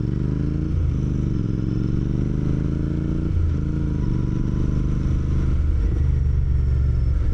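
Royal Enfield motorcycle engine running, its note dipping briefly and picking back up about three times as the throttle changes.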